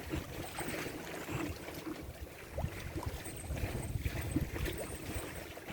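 Wind buffeting the microphone in uneven low gusts over a steady wash of moving water.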